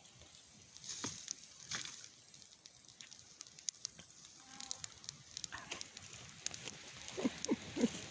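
Campfire crackling with scattered sharp pops, two of them stronger about a second and two seconds in.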